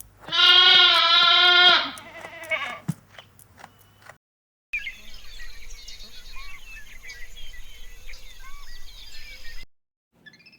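Sheep bleating: one long, quavering bleat, then a few shorter calls. After a brief break, birds chirping for about five seconds.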